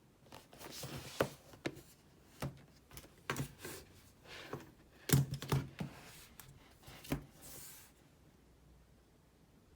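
Irregular clicks, taps and short rustles of objects being handled at close range, stopping about eight seconds in.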